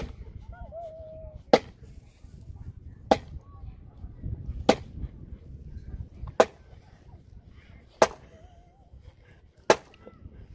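Fiskars X11 splitting axe chopping into a log: sharp, loud blows at a steady pace, about one every second and a half, seven in all.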